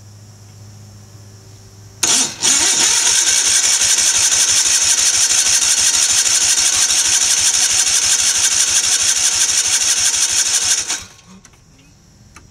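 Tractor engine being cranked on its starter: a brief bump about two seconds in, then about nine seconds of steady, rapidly pulsing cranking that stops without the engine catching. The engine is not getting fuel because of a part that keeps clogging.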